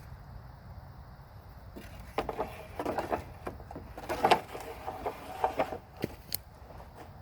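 Sticks and branches being handled for a shelter wall: a run of short wooden knocks and cracks, loudest about halfway through.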